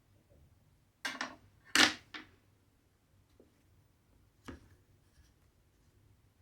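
Close handling noises of cross-stitching with needle, cotton thread and fabric. A quick run of short rasps and taps comes about a second in, the loudest near two seconds, and a single one follows about four and a half seconds in.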